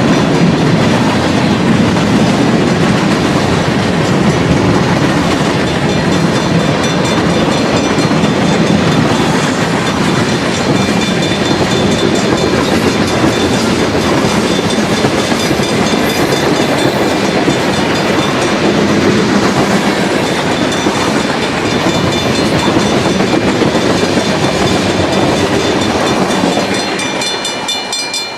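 A long freight train of petroleum tank wagons passing at speed, with steady loud rumbling and wheels clattering over the rail joints; the sound falls away near the end.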